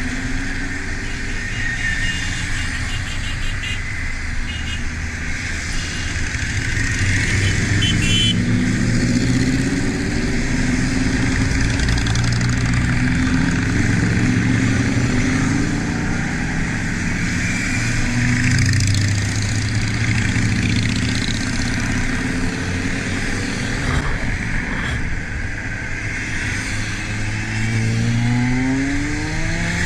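Motorcycle engine ridden in a convoy, its revs rising and falling again and again as the rider accelerates and eases off, with a long rise in pitch near the end. Steady wind and road noise runs underneath.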